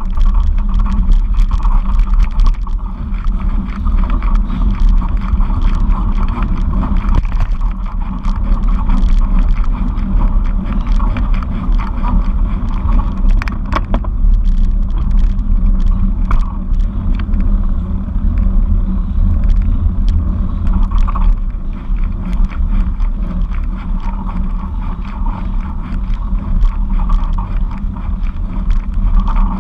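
Steady, loud rumble of wind and road noise on a camera riding along on a bicycle, with frequent small clicks and rattles throughout.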